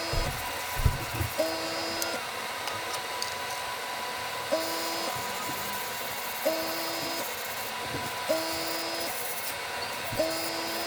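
Small airbrush compressor running with a steady hiss of air. A short two-tone pulse with a sharp start repeats about every two seconds, with a few low knocks in the first second.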